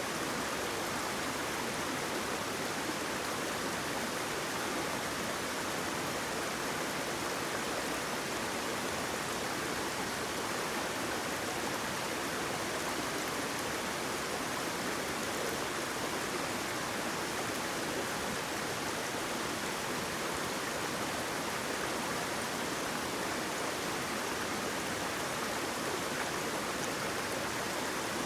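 Flowing water, a steady rushing with no change in level.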